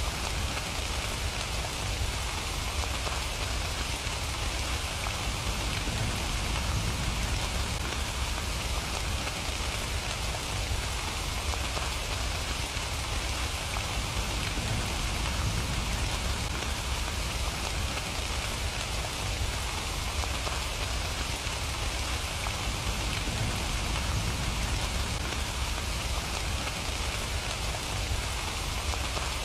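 Steady, even rain falling, a continuous hiss of drops with a deep low rumble underneath and no breaks.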